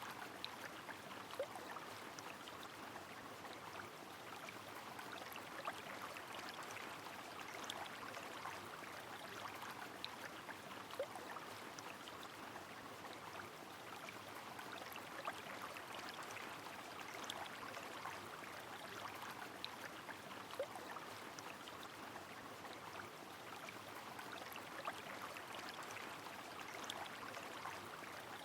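Rain falling on a flowing river: a steady rush of water with many scattered drips ticking and the occasional plink.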